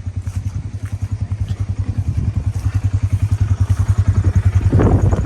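An engine running with a rapid, even pulse, growing louder. A short noisy burst comes near the end.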